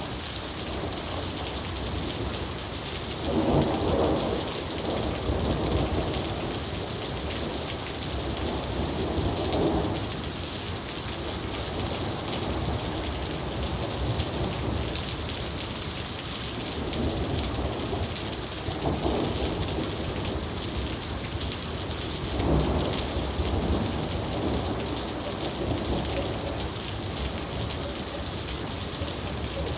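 Steady rain pouring down, with several rolls of thunder rumbling through it; the strongest rumbles swell about four seconds in and again past the middle, each fading after a second or two.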